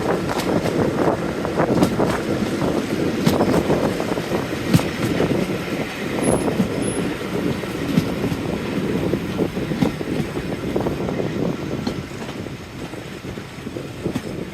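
A Class 45 diesel-hauled train running along the track, with an irregular clatter of wheels over the rails; the sound eases off a little near the end.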